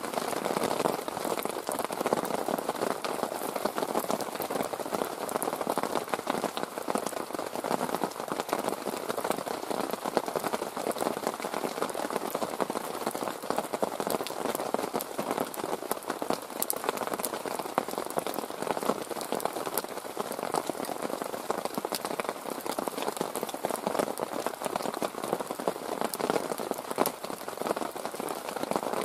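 Heavy rain tipping down steadily, a dense patter of drops on the tarp shelter overhead.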